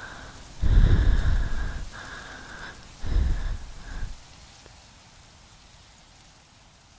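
Wind gusting in two swells with a thin whistling tone over a steady hiss, dying away about four seconds in.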